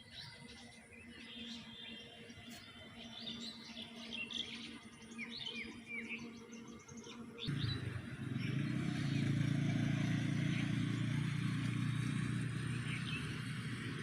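Small birds chirping and tweeting over a faint steady hum. About halfway through, a louder, steady low rumble suddenly starts and continues.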